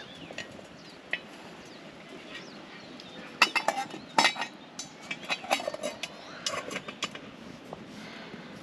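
Irregular clinks and clatters of small hard objects, busiest in the middle stretch, over a low steady background.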